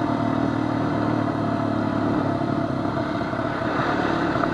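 Honda FourTrax quad's engine running steadily while it rides along a dirt trail.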